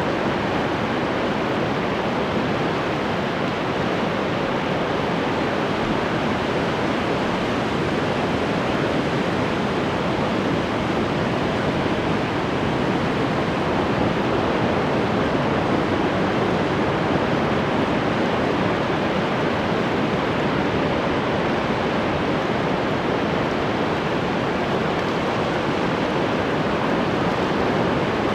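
Ocean surf washing steadily, a dense continuous noise with almost no rise and fall between individual waves.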